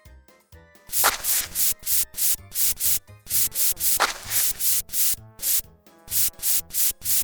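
Cartoon car-wash scrubbing sound effect: a brush swishing back and forth about three strokes a second, with a short pause before it starts again near the end.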